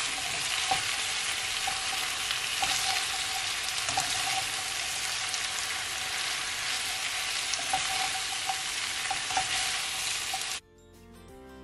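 Shredded cabbage, bell peppers and carrot sizzling in a non-stick pan, with light clicks as a plastic slotted spatula stirs and tosses them. The sizzle cuts off suddenly near the end and soft background music takes over.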